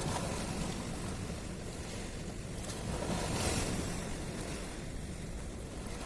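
Sea waves washing at the shore with wind buffeting the microphone, a steady noisy rush with a deep rumble; a wave swells louder about halfway through.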